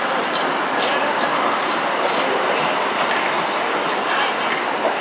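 Chiltern Railways Mk3 passenger coaches rolling past: a steady rumble of wheels on rail with scattered clicks over the rail joints. A brief high squeal from the wheels comes about three seconds in.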